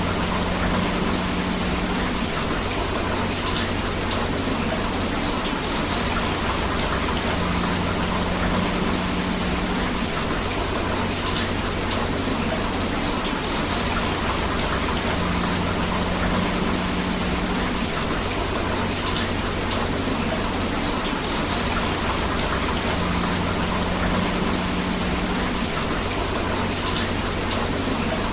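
Steady rain mixed with flowing river water, an even rushing hiss. The recording loops, with a faint low hum coming back for a couple of seconds about every eight seconds.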